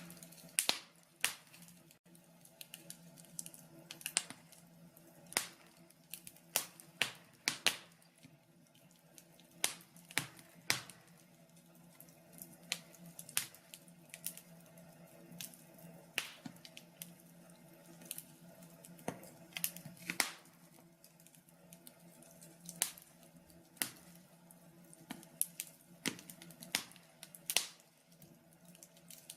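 Wood fire in a log burner crackling, with irregular sharp pops and snaps over a faint steady hum.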